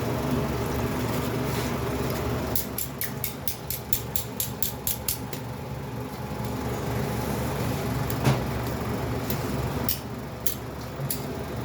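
A steady mechanical hum, like a fan or a machine running, with a quick run of sharp clicks at about five a second, a single louder knock, and a few scattered clicks near the end.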